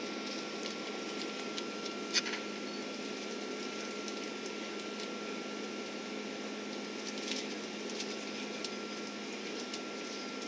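Steady hum of an Airbus A330-300 cabin, from its engines and the air rushing past, with a faint steady whine and a few light clicks and rattles of the cabin fittings, the sharpest about two seconds in.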